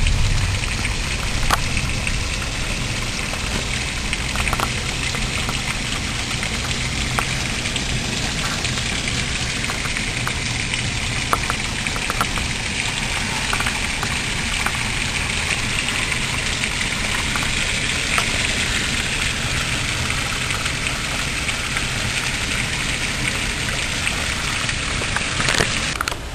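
Heavy tropical-storm rain pouring down and water running off the roofs: a steady rushing hiss with scattered sharp drops splatting close by.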